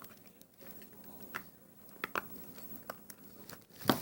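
A few faint, scattered clicks and taps of small plastic toy figures being handled.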